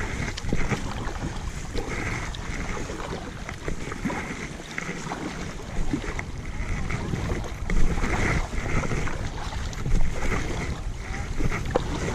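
Kayak being paddled: the paddle blades dip and splash in the water at an uneven pace, with wind buffeting the microphone.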